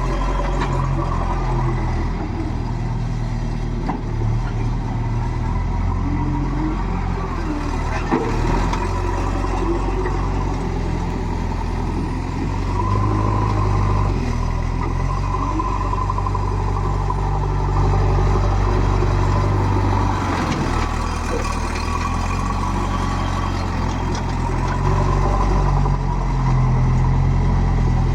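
JCB 3DX backhoe loader's diesel engine running steadily and revving up in spells while it digs and loads mud, with a sharp knock about eight seconds in.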